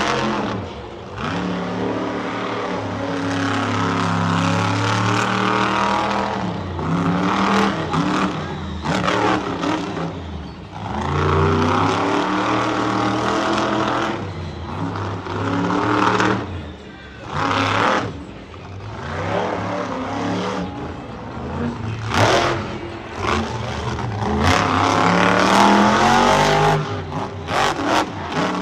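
Monster truck engine revving hard through a freestyle run, its pitch climbing and falling with the throttle and cutting out briefly several times as the driver lifts off.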